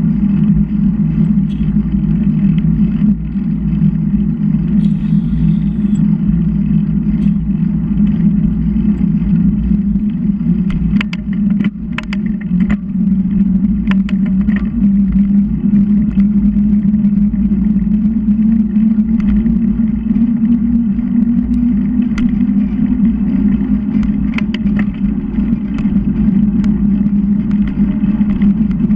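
Steady low droning rumble of riding a bicycle along a road, with scattered clicks and rattles in two clusters, about ten seconds in and again after about twenty seconds.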